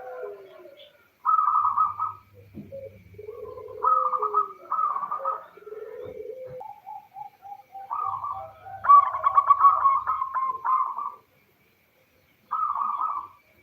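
Female zebra dove (local perkutut) giving a series of short, staccato cooing phrases separated by brief pauses, with a quicker rattling phrase near the end. This is the call a female uses to draw a male into answering.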